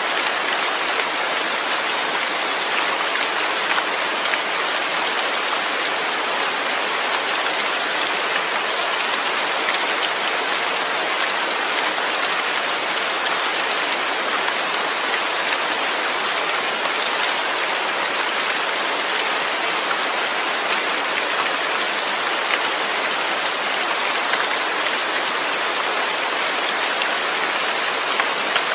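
Steady rainfall, a dense even patter of drops on surfaces.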